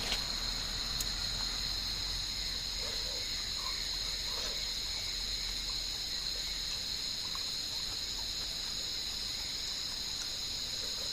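A steady, high-pitched chorus of insects chirring, with a few faint soft sounds underneath.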